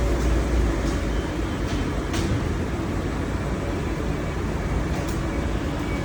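Street traffic: a passing vehicle's low rumble fades about a second in, over a steady wash of road noise from the wet street.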